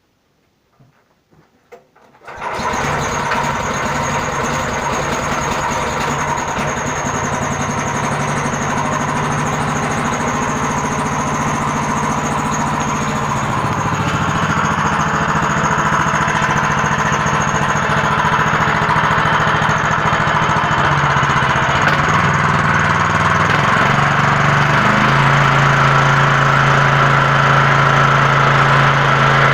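15-horsepower engine of a homemade all-terrain vehicle, started for the first time, catching about two seconds in after a few small clicks and then running steadily. Its pitch steps up and down several times in the second half, and it grows a little louder toward the end.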